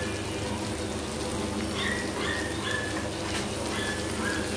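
Chopped okra frying in hot mustard oil in a pan, a steady soft crackle. A run of short high chirps comes in quick succession around the middle and a couple more near the end.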